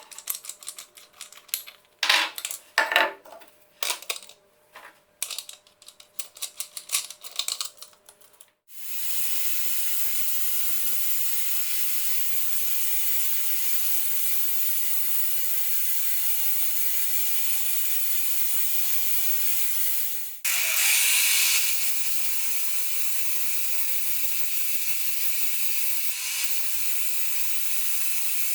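A few seconds of irregular metallic clinks and knocks, then a steady hiss that runs on. About twenty seconds in there is a short break, followed by a brief louder burst of hiss.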